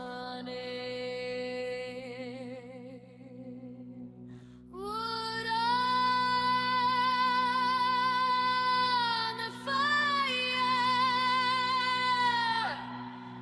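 Song intro: a wordless sung vocal holds long notes with vibrato over a steady low drone. One note fades out, and a louder note starts about five seconds in and holds, with a brief break, until near the end.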